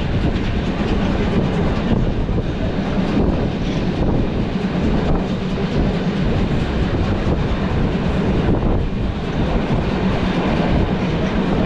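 Historic steam-hauled train of Umbauwagen coaches behind locomotive 50 2988 running along the track: a steady rumble with wheel clatter on the rails.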